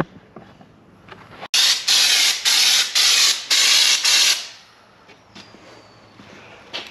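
Air-powered bed liner spray gun spraying Raptor liner: a loud hiss of air and coating that starts sharply about a second and a half in and comes as about six quick pulses over three seconds before tailing off.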